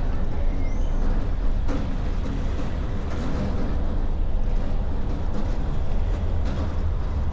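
Steady driving noise of a car on the road, picked up outside on the bonnet: deep wind rumble on the muffled microphone with tyre and engine noise, and a few faint brief clicks from the road.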